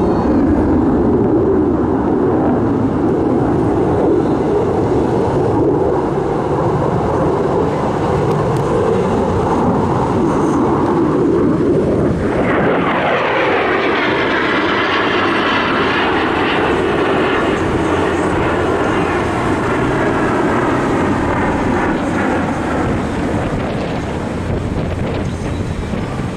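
Airplane engine noise from a display aircraft flying past low. About halfway through the sound changes sharply as it passes overhead, then its pitch sweeps down as it moves away.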